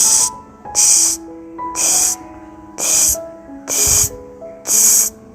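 A broom sweeping the ground in regular strokes, about one swish a second, six in all, over soft background music.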